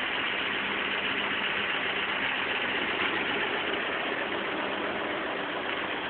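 Old truck's engine idling steadily with an even hum.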